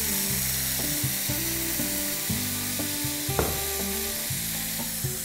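Ginger, garlic and green chilli paste sizzling and frying in smoking-hot mustard-blend oil in a pan, stirred with a spatula. Soft background music plays under it.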